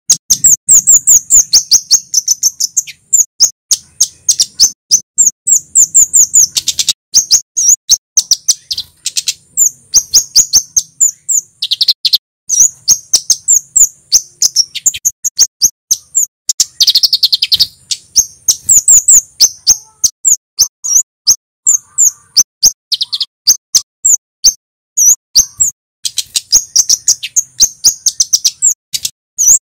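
Male kemade (flowerpecker) calling: rapid runs of sharp, high 'cit' notes, each a quick downward slur, in bursts of many notes a second with short breaks between them.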